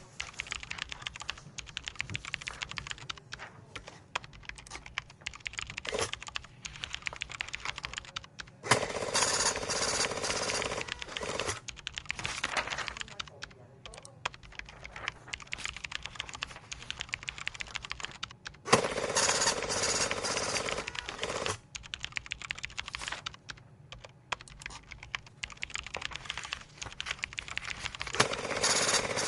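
Computer keyboard being typed on steadily: a fast, uneven run of key clicks. Three times, about nine seconds in, about nineteen seconds in and again at the end, a louder steady sound of two or three seconds rises over the typing.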